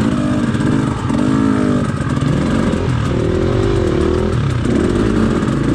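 Dirt bike engine running under throttle, its pitch rising and falling again and again with short bursts of throttle.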